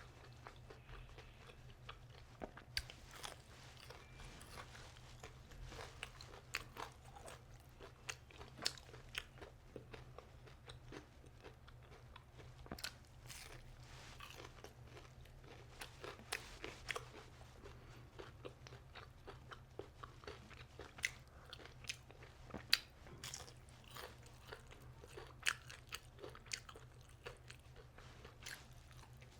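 Close-up crunching and chewing of crispy deep-fried aalu chop (gram-flour-battered potato fritters): irregular crisp bites and chews throughout, over a steady low hum.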